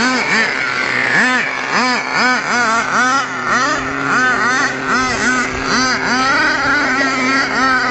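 Small two-stroke nitro glow engine of an RC pickup truck revving in quick throttle blips, its pitch rising and falling about twice a second while the truck spins donuts.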